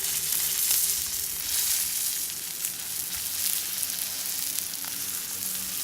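Pacific saury sizzling on a hot iron griddle: a steady crackling sizzle of fish still cooking.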